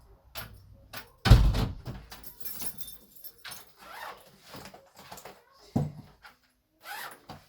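Household handling noises: a heavy thump about a second in, then a run of lighter clicks, knocks and rustles, as shoes go on, recycling is gathered and a door is worked.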